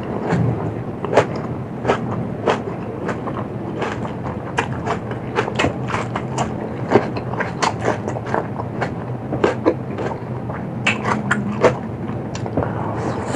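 Close-miked eating: crisp crunches and wet chewing clicks from a mouth working through crunchy food, several a second at an irregular pace.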